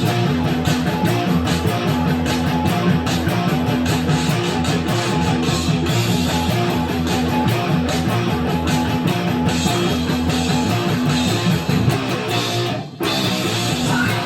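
Electric guitar, a Gibson SG Standard with 57 Classic humbucking pickups, playing a continuous rock riff with a brief break near the end.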